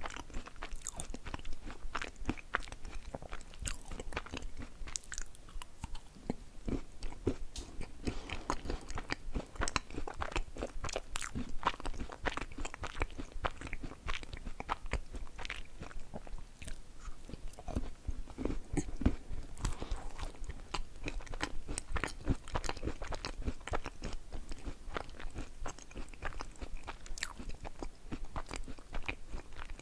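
Close-miked chewing and crunching of crumbly chocolate halva with nuts, a dense, uneven run of crisp crunches and soft mouth sounds.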